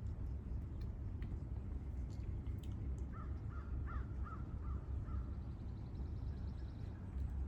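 A run of about five short bird calls a few seconds in, followed by a faint high twitter, over a steady low rumble, with a few faint light clicks in the first seconds.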